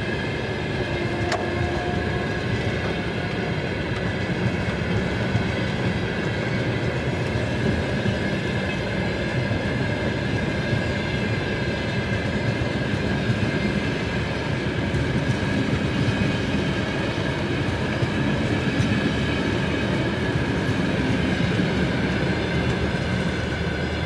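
Freight train of loaded hopper wagons rolling slowly past, a steady rumble of wheels on rail with a faint, steady high-pitched whine over it.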